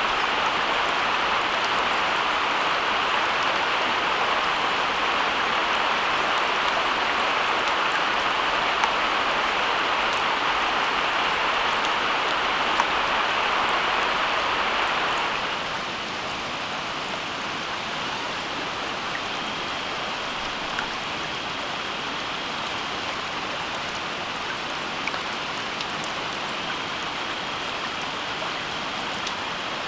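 Steady rain-like water noise: an even hiss with scattered faint ticks. It eases slightly in level about halfway through.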